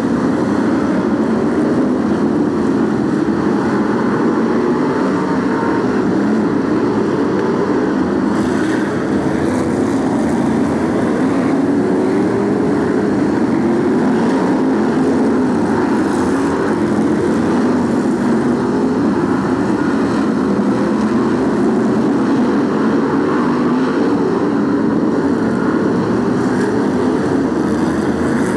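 Pack of BriSCA F1 stock cars racing, several big V8 engines running hard together, their pitches rising and falling over one another as the cars lap the oval.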